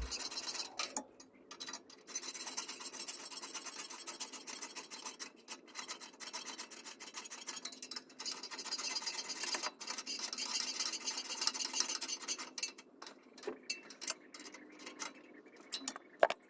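A ratchet wrench clicking rapidly in bursts with short pauses between them, as the exhaust bolts are run in. The clicking thins out to scattered clicks near the end.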